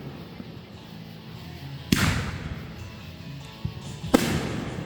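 Fireworks bursting overhead: two loud booms about two seconds apart, each trailing off in a long rolling echo, with a smaller pop just before the second.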